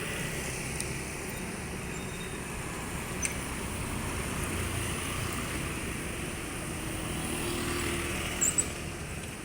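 Steady motorcycle engine and road noise while riding in traffic, with a brief click about three seconds in.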